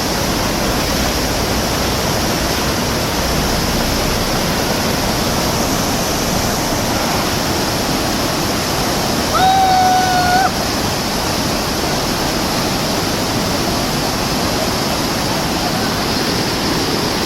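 Fast-flowing river rushing steadily and loudly. About ten seconds in, a single held tone sounds for about a second.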